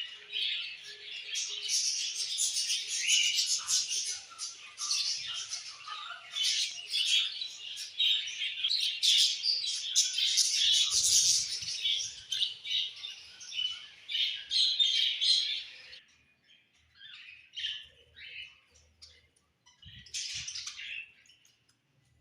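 Several budgerigars chattering and warbling together, a dense mix of fast chirps; about three quarters of the way through it thins out to a few scattered calls, with one short burst of chatter near the end.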